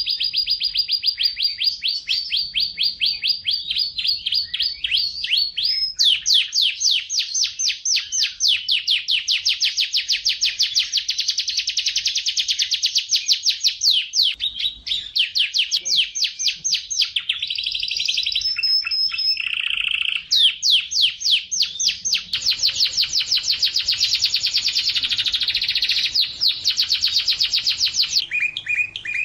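Domestic canary singing one long, unbroken song of rapid trills. About six seconds in it switches to a faster, higher rolling trill, and partway through it slips in a brief whistled note and a short buzzy phrase.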